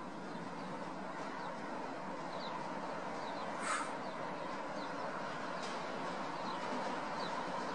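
Steady outdoor noise with faint short high chirps of small birds about once a second, and one brief louder rasp a little before halfway.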